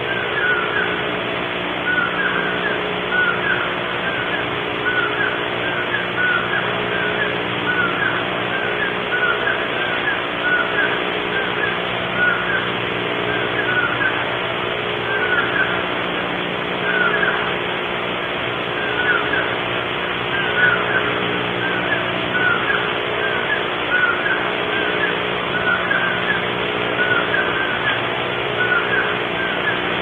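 Unidentified bird giving short, repeated chirps, roughly once a second, over a steady electrical hum and hiss.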